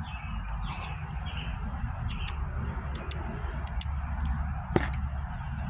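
Small birds chirping in short high calls, with several sharp clicks and one louder knock near the end, over a steady low rumble.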